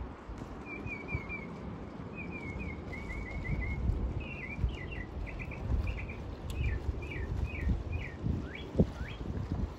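A songbird singing a run of quick chirped phrases, each note repeated a few times in a row, ending with two short upward-sweeping whistles. Low wind rumble on the microphone underneath.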